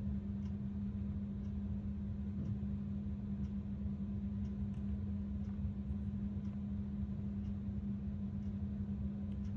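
Steady low hum and rumble of background room or equipment noise, with faint ticks about once a second.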